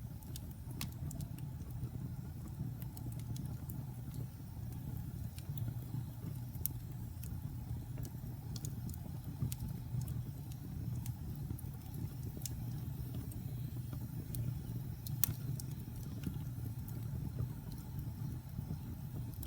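Wood fire burning in a fireplace: a steady low rumble with scattered sharp crackles and pops, one louder pop about three-quarters of the way through.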